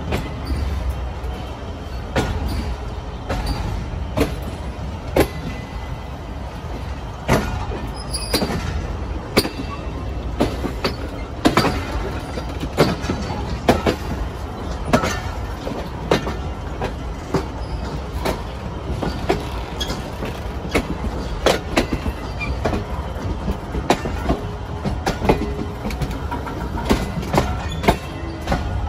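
Passenger train rolling on the track: a steady low rumble with sharp clicks and clanks at irregular intervals, as wheels pass over rail joints and points.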